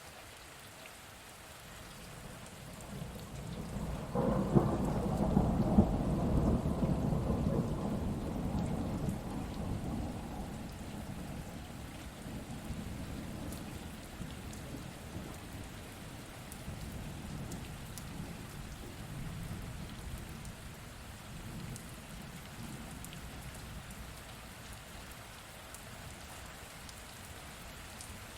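Steady rain falling, with a peal of thunder that builds about three seconds in, cracks and rumbles loudest for a few seconds, then rolls away slowly over the next ten seconds or so.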